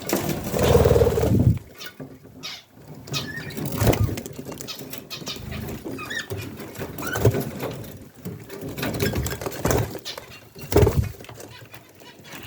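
Pet budgerigars chirping and chattering in short, irregular bursts, with occasional bumps.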